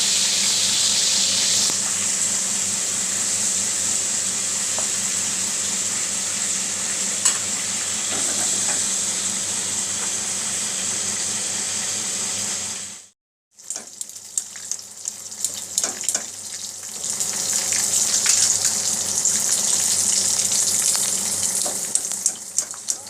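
Flour-coated chicken wings deep-frying in hot oil: a steady sizzle. It drops out completely for a moment about 13 seconds in, then comes back crackling with sharp pops, and the sizzle swells again.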